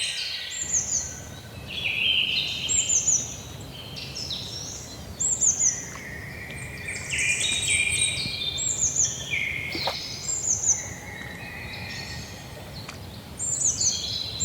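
Several songbirds singing, their short chirping phrases overlapping and repeating every second or two, over a steady low background rumble.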